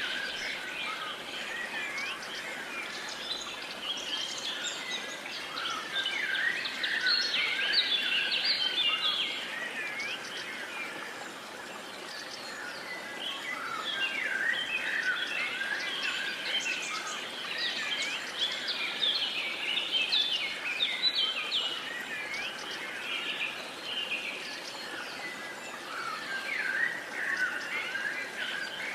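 A chorus of many birds chirping and trilling over a steady outdoor background hiss, swelling and thinning in waves.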